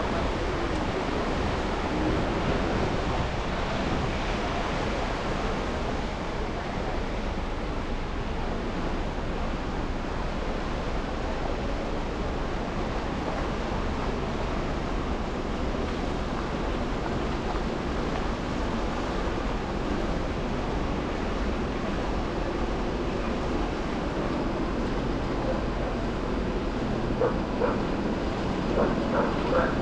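Steady road and traffic noise of a car driving through snowy city streets, a continuous rushing hiss of tyres and engine. A few short sharp sounds break through near the end.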